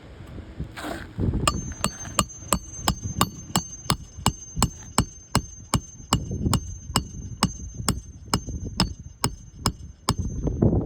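Hammer tapping in a steady run of about thirty quick, light strikes, three or four a second, each with a metallic ring, as a replacement roof shingle is fastened in.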